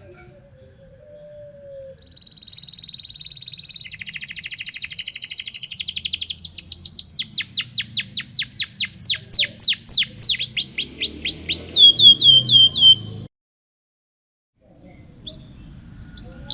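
Domestic canary singing: a fast, high trill starts about two seconds in and changes into a quicker, wider trill, then a run of loud falling whistled notes that speeds up near the end and cuts off abruptly.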